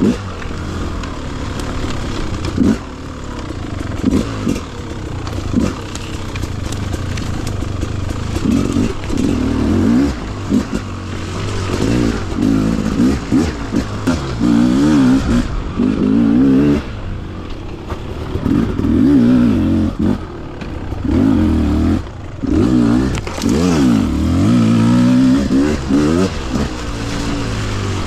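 Beta RR300 two-stroke enduro motorcycle being ridden, its engine pitch rising and falling again and again as the throttle is worked. The engine has been freshly rebuilt and is being run in.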